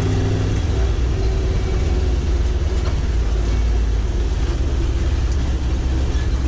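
Race bus powered by a 604 racing V8 out of a limited sportsman car, rolling slowly with a loud, steady low rumble.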